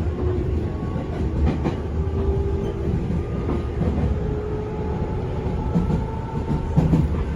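Onboard running sound of a JR 205 series 500-subseries electric train, heard inside a motor car: a steady low rumble with a traction-motor and gear whine that rises slightly in pitch as the train gathers speed. A few clacks of the wheels over rail joints come through.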